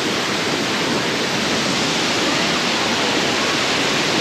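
Mae Sa Waterfall pouring down close by: a steady, unbroken rush of falling water.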